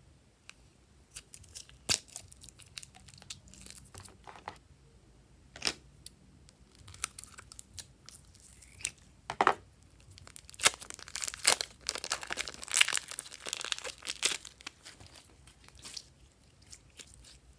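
Slime being squished and kneaded by hand, giving sharp popping clicks and crackles that come thick and fast for a few seconds past the middle.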